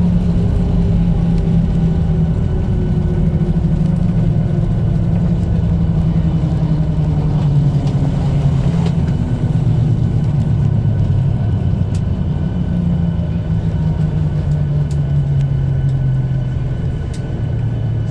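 Boeing 737 cabin noise: a loud, steady engine drone whose pitch slowly falls as the engines wind down, with a few faint ticks and rattles near the end.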